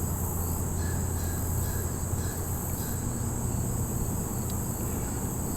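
A steady chorus of insects: a high, even trill with faint repeated chirps, over a low steady hum.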